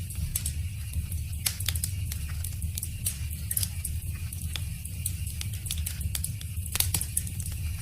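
Wood fire crackling, with frequent sharp pops and snaps over a steady low rumble; a few louder pops come together near the end.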